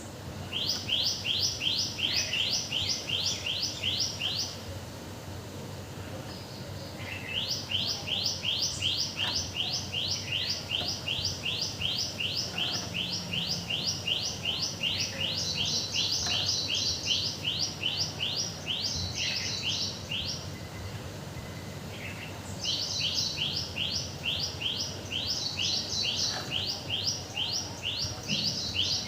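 A bird calling in long runs of rapid, sharp chirps, about five a second. There are three runs, broken by short pauses at about four and a half seconds and about twenty seconds in.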